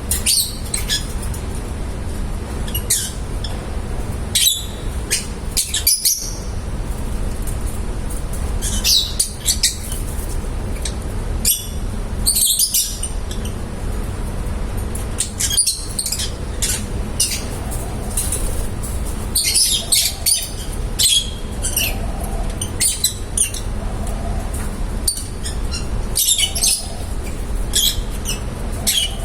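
Pet lovebirds chirping and squawking in many short, high calls, scattered irregularly, with several calls close together at times. A steady low hum runs underneath.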